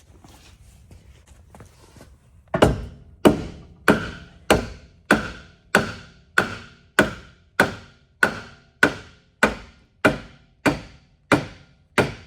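Hammer blows driving a wooden block into place, about sixteen evenly paced strikes, roughly three every two seconds, starting a couple of seconds in. Each blow lands with a solid wooden thunk and a short ring.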